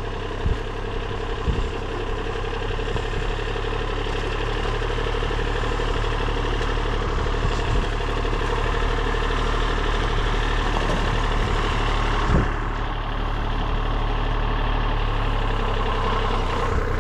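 Tractor engine running steadily, with a few short knocks, one of them about twelve seconds in.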